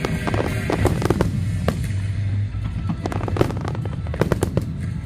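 Fireworks display: many sharp shell bursts and crackling bangs in quick succession over a continuous low rumble.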